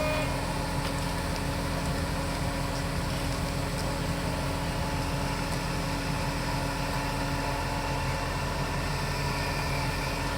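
Steady hum of a running vehicle, an even engine drone with noise that doesn't change.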